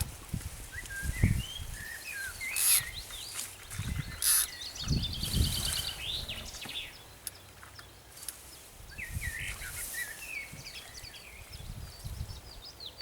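Small birds singing outdoors: short chirps and fast trilled phrases. Dull low bumps and a couple of brief rustles of handling are heard over them.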